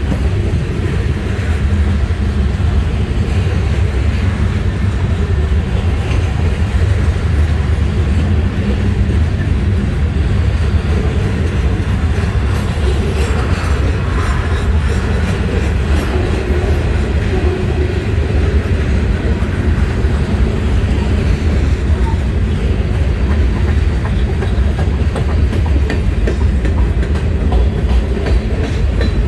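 Freight cars of a CSX manifest train rolling past: a steady, loud rumble of steel wheels on the rails.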